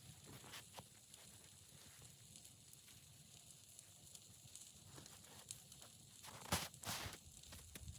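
Faint steady hiss, then a couple of soft crunching footsteps in snow about six and a half seconds in.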